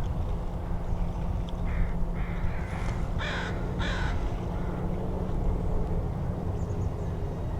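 American crow cawing about four times in quick succession, a little under two seconds in, over a steady low background rumble.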